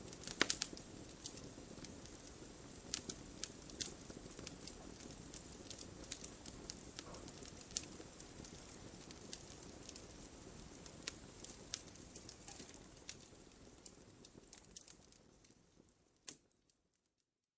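Wood fire crackling, with irregular sharp pops and snaps over a soft hiss, and a quick cluster of pops just after the start. Near the end the fire sound fades out to near silence.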